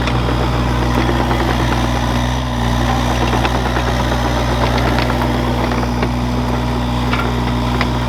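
An excavator's diesel engine running steadily with an even low hum.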